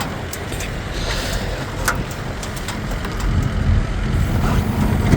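Future FT15 mini excavator's small gas engine running steadily, with a few short clanks.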